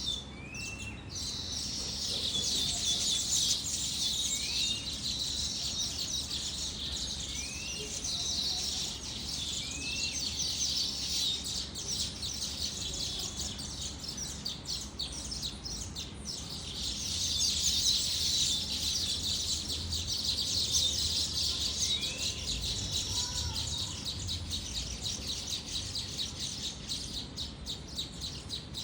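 Many small birds chirping together in a dense, high-pitched, continuous chatter. A separate short upward-sliding call repeats several times, spaced a few seconds apart.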